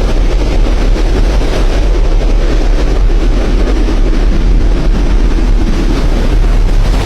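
Loud, steady roar of a thunderstorm, heaviest in the deep low end.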